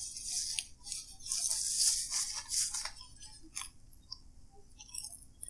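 Eating noises at the table: rustling, crinkling paper food wrapping for about the first three seconds, then scattered small clicks and taps.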